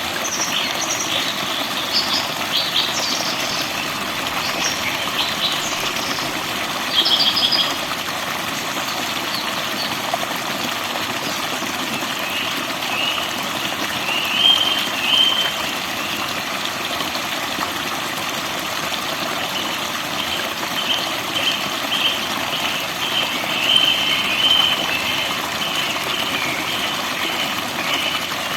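Forest birds singing over a steady rush of flowing water. Quick high chirps come in the first few seconds, then a bird repeats short trilled phrases through the second half.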